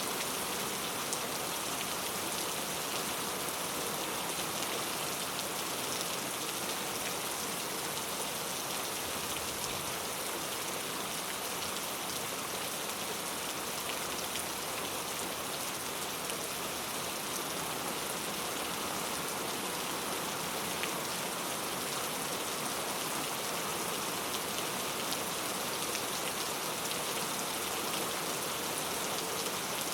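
Heavy rain falling steadily on mango tree leaves: a dense, even patter with the odd sharper tick of a single drop.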